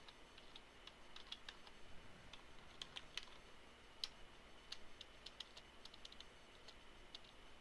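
Faint, irregular keystrokes on a computer keyboard: typing in short runs with gaps.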